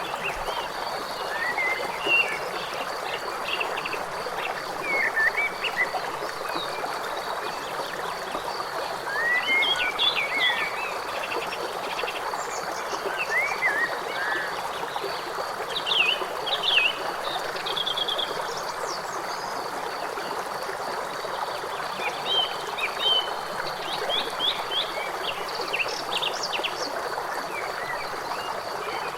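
Steady rush of a river, with birds chirping and trilling now and then over it.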